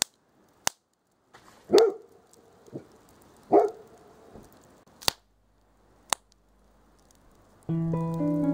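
Golden retriever barking twice, about two seconds apart, with a softer bark between, amid a few sharp clicks. Near the end a solo guitar starts playing.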